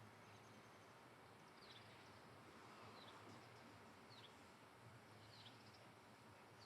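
Near silence with a bird faintly chirping, single short falling notes about once every second or so.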